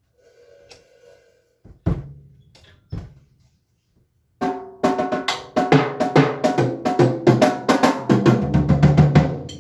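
Drum kit being played: a few separate hits, then from about four and a half seconds a fast, continuous run of drum and cymbal hits.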